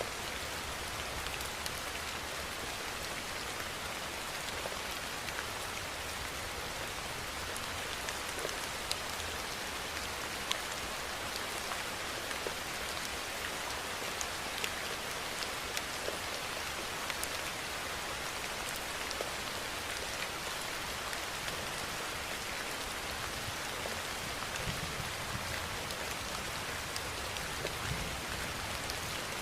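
Steady rainfall: an even hiss of rain with scattered sharper drop ticks throughout.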